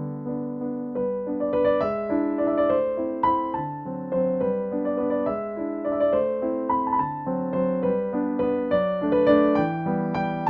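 Background piano music: a gentle melody of notes over sustained chords.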